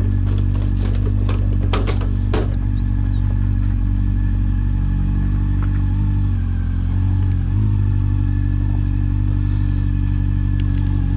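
Motorcycle engine idling steadily, with a few sharp clicks between about one and two and a half seconds in and a slight wobble in the engine note a little past the middle.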